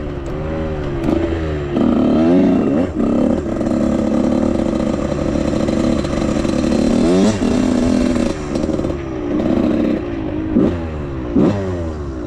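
Suzuki RM85 two-stroke dirt bike engine being ridden hard: revs held high for several seconds, then dropping and climbing again several times near the end.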